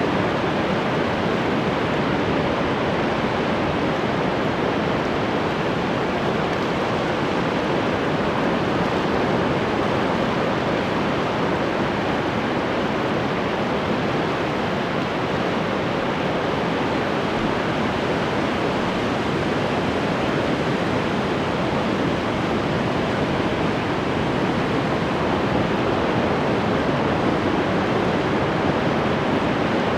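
Ocean surf: a steady, unbroken wash of breaking waves with no separate wave crashes standing out.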